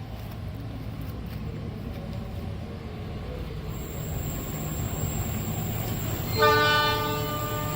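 A train horn sounds one short chord-like blast about six and a half seconds in, loudest at its start and dying away within a second, over a steady low rumble.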